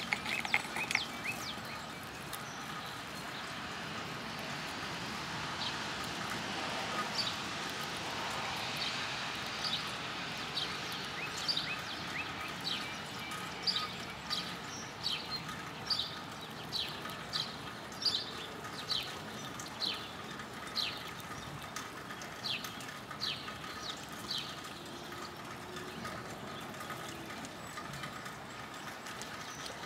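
A bird calling outdoors: a long series of short, high, downward-sliding chirps, roughly one a second, over a steady background of traffic-like noise.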